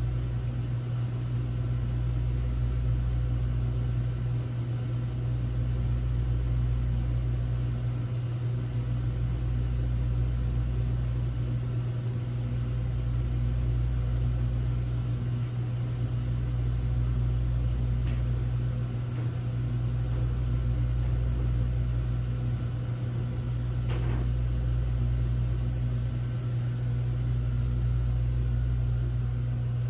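Hotel room air conditioner running with a steady low hum, its lowest rumble dipping briefly about every three and a half seconds.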